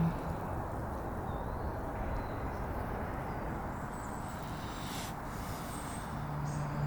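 Steady outdoor ambient noise, a low rumble like wind or distant traffic, with a few faint high bird chirps.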